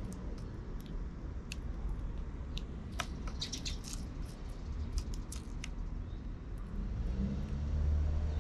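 Sparrows giving short, scattered chirps over a steady low rumble of traffic; a vehicle engine hum grows louder near the end.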